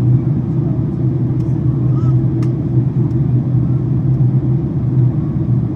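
Steady, low drone of engine and airflow noise inside the cabin of a Boeing 767-400ER airliner during descent, with faint voices in the background.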